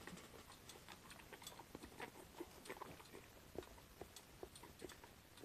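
Faint chewing: soft, irregular mouth clicks as someone finishes eating a bite of food.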